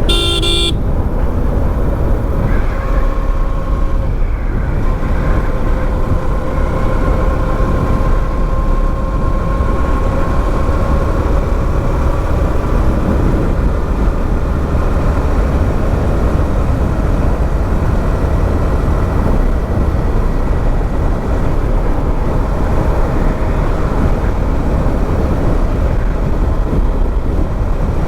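Motorcycle riding at road speed, with heavy, steady wind rumble on the microphone. A short beep comes right at the start, and a faint steady engine hum rises out of the noise for several seconds early on.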